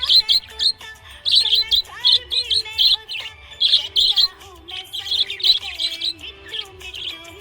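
Budgerigar chirping: quick clusters of sharp, high chirps repeating, with music underneath.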